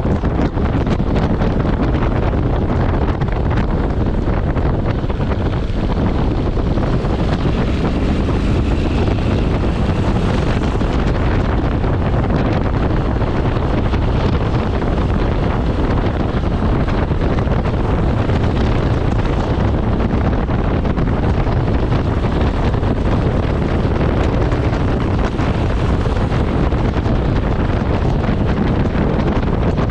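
Steady wind noise buffeting the microphone of a moving motorcycle, with the rush of the ride underneath and no distinct engine note.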